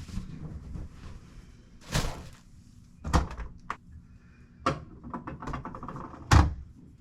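Four short knocks and scuffs from things being handled close to the microphone, each brief and sudden, the loudest near the end.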